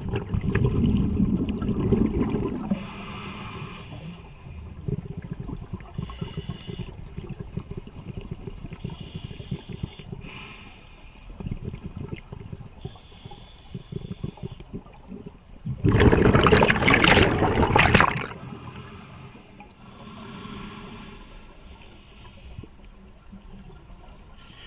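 Scuba diver underwater: exhaled bubbles from the regulator gurgling and rushing, with a loud two-second burst of bubbles about 16 seconds in and a loud low rumble at the start.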